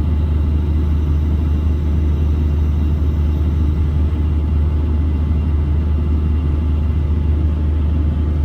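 Hitachi long-reach excavator's diesel engine running with a steady low drone, heard from inside the cab.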